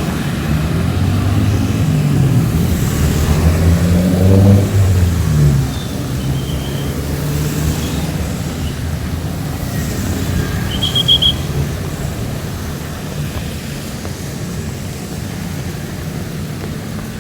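Heavy rain falling steadily on a street while a motor vehicle drives past close by. Its engine rises in pitch and is loudest about four seconds in, then settles into a steadier lower run before fading.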